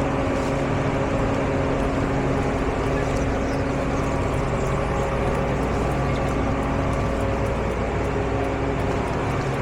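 A vehicle's engine running steadily, an even hum that holds one pitch throughout.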